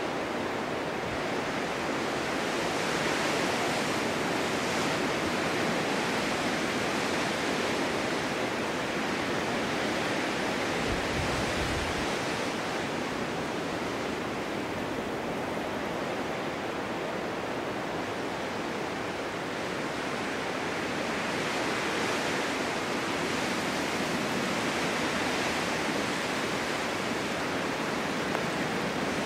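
Snowstorm wind blowing: a steady rushing noise that swells and eases slowly over several seconds at a time.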